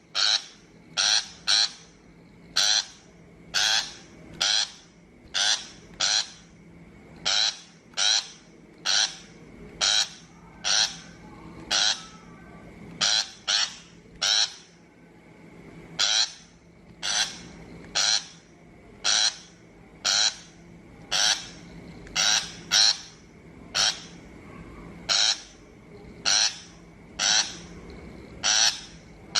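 A shrike's harsh call notes, repeated over and over about once or twice a second: a looped lure recording of the kind played from a trap speaker. The calls stop abruptly at the very end.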